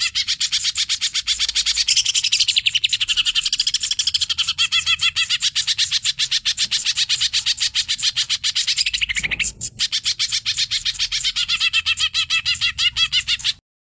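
Greater green leafbird (cucak ijo) singing an excited, 'hyper' song: a fast, unbroken run of high repeated notes, many to the second, with a short break about nine seconds in. The song cuts off abruptly near the end.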